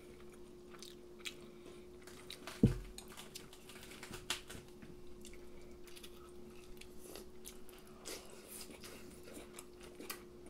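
Close-miked chewing and small mouth clicks from people eating fried chicken, cheese-filled katsu and rice, with one sharp thump about two and a half seconds in. A faint steady hum runs underneath.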